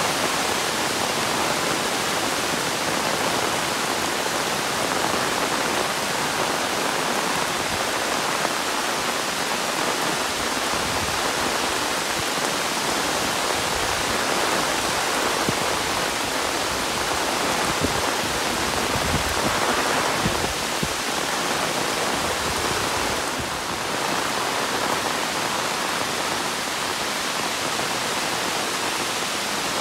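Heavy monsoon rain falling steadily, a dense even hiss of rainfall.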